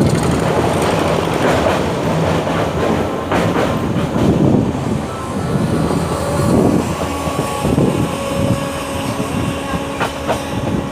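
Passenger train running: a steady rumble of coach wheels on the rails with a few sharp clicks. A steady whine comes in about halfway through.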